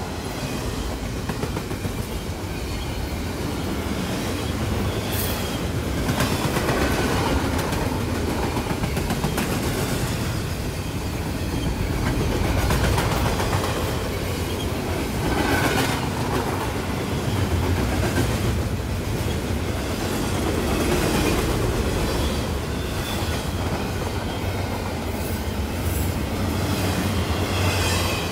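Double-stack container freight train rolling past: steady rumble and clickety-clack of the well cars' wheels, swelling and easing every few seconds, with a few brief high-pitched wheel squeals.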